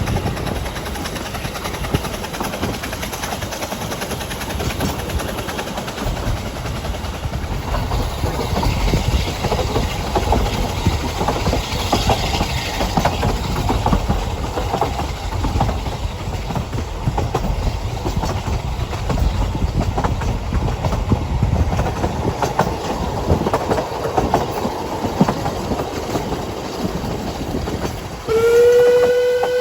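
Narrow-gauge train on the Ffestiniog Railway running, with a steady rumble and wheel clatter on the rails. Near the end a loud whistle sounds, held as one long note.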